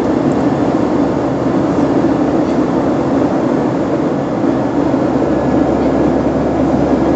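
Steady, loud rumble of a passenger plane heard from inside the cabin.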